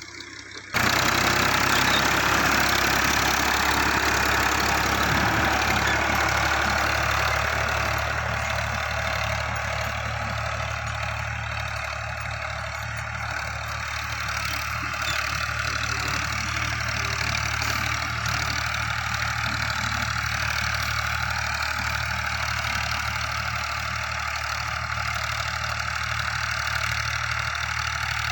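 A tractor's diesel engine running steadily at idle. It gets suddenly much louder about a second in, then holds a steady, even note.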